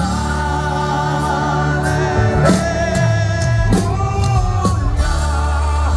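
Live gospel worship band with voices singing long held notes, an 'aleluia' sung over steady bass and drums.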